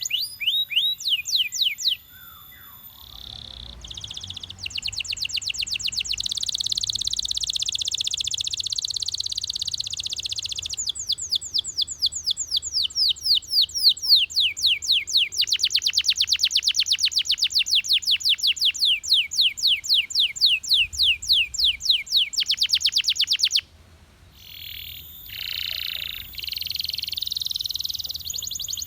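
Belgian canary singing in long rapid trills: a fast rolling trill gives way, about 11 seconds in, to a train of quick falling notes that stops abruptly near 24 seconds, followed after a brief break by shorter phrases.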